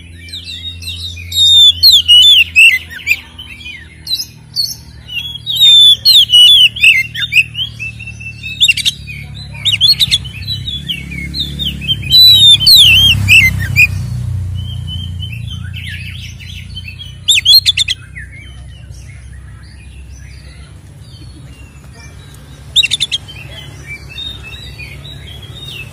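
Oriental magpie-robin (kacer) singing a loud, fast, varied song of rich whistles mixed with harsh rasping notes, in bursts that thin out after the first half, over a low steady rumble.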